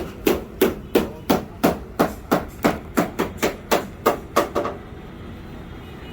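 A steady run of sharp knocks, about three a second, each with a short ring, that stops shortly before the end, leaving a low steady background noise.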